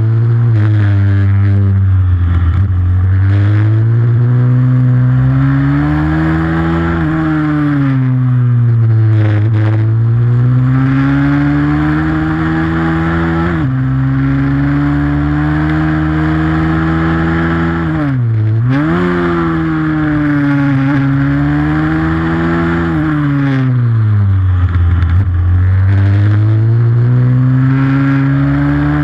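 A pit bike's single-cylinder four-stroke engine is worked hard around a race track, its pitch climbing under throttle and falling when the throttle is shut, again and again. There is a sudden step down in pitch about halfway through, and a deep quick dip and recovery a little after that.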